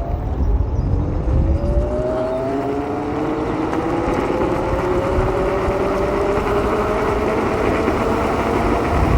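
Electric motor of a homemade electric mini bike whining as it accelerates hard on a speed run, its pitch climbing steadily and levelling off near the end, over a low rumble.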